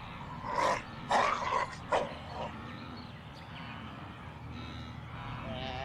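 A burst of four or five short, harsh animal calls in quick succession in the first two seconds, over a low steady rumble, with a wavering call starting near the end.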